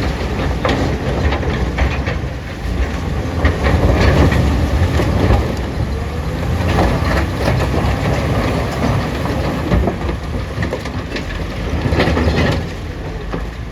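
Caterpillar 966D wheel loader's diesel engine running under load, with irregular metallic clanks and knocks over a heavy low rumble; it eases a little near the end.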